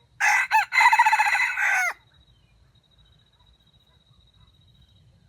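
A rooster crowing once, a loud crow of under two seconds that breaks up briefly at the start and ends on a falling note.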